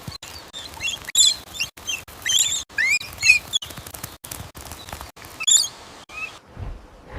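A bird chick's high, squeaky chirps in several short bouts, loudest about two to three seconds in and again briefly near five and a half seconds.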